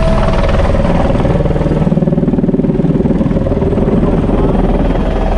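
Helicopter in flight heard from inside the cabin: the rotor and turbine run with a fast, even rotor beat that grows stronger about two seconds in.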